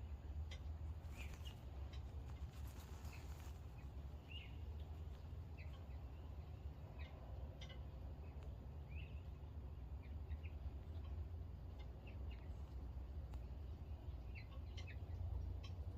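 Small birds giving short, scattered chirps over a steady low rumble.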